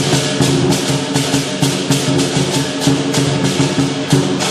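Lion dance percussion band playing: the big lion drum, clashing cymbals at about four strokes a second and a ringing gong, at a steady driving beat.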